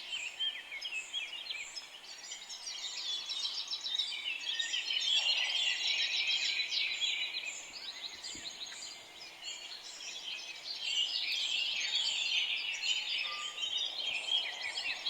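Many small birds chirping at once, a dense chorus of high, overlapping chirps and twitters.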